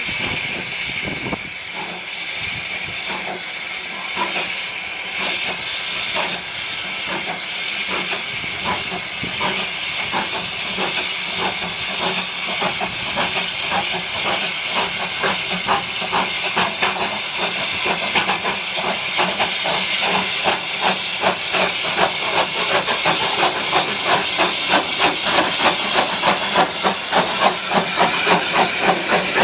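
Narrow-gauge steam locomotive hissing steam, then its exhaust beats starting up and quickening to about two a second, growing louder: the engine pulling away and gathering speed.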